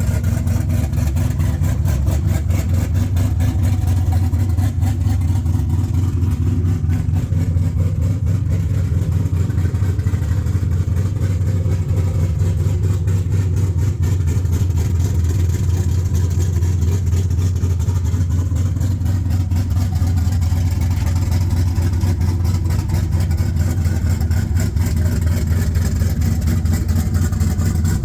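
Pontiac G8 GXP's turbocharged 6.2-litre LS3 V8 with a TSP F35 camshaft, idling steadily with no revving.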